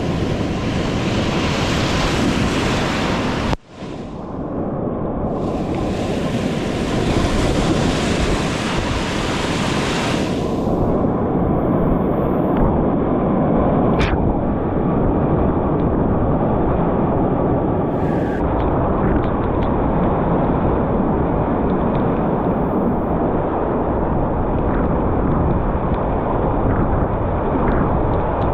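Loud rushing and crashing of high-water whitewater rapids, with water and wind buffeting the microphone. The sound cuts out for an instant about three and a half seconds in, then returns.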